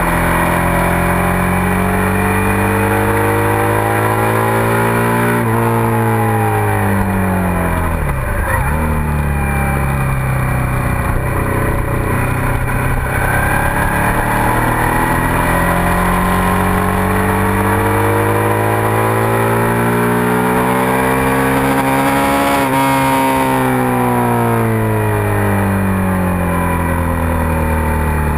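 Suzuki SV650's V-twin engine at full track pace. Its pitch climbs steadily, drops and climbs again sharply about eight seconds in as the rider downshifts and brakes, rises again through a long run, then falls off over the last few seconds as the bike slows. Wind rush over the bike-mounted microphone runs underneath.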